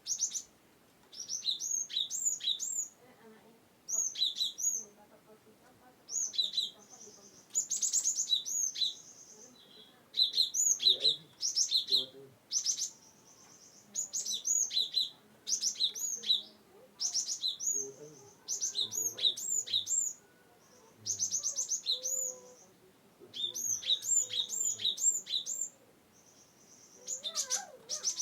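Cinereous tit (gelatik batu) singing: bouts of quick, high, down-slurred notes repeated over and over, each burst lasting a second or two with short pauses between.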